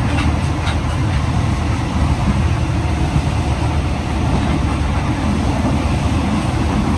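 Passenger train running, a steady low rumble of the carriage on the rails.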